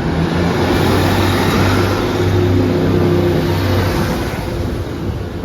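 A train running under power, its engine tones holding steady, then fading away near the end.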